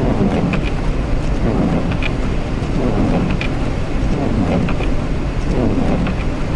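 Steady rumble inside a semi truck's cab on the move on a snowy highway. Soft rising-and-falling swishes come about once a second, and small ticks are scattered through it.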